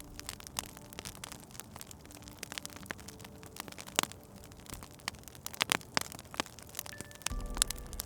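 Wood fire crackling, with irregular sharp pops and a few louder snaps about four seconds in and again around six and seven and a half seconds. A low rumble comes in near the end.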